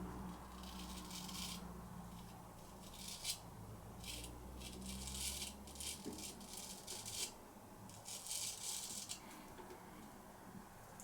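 Irregular short bursts of soft rustling and rubbing, with a low steady hum that stops about six seconds in.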